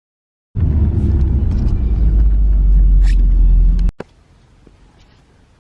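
A car's engine and exhaust giving a loud, steady low rumble that starts about half a second in and cuts off abruptly just before four seconds.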